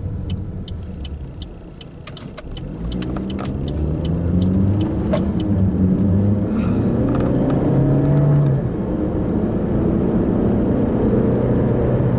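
A car's turn signal ticks at about two to three clicks a second. The engine then pulls away and accelerates, its pitch climbing and dropping back about eight seconds in at a gear change.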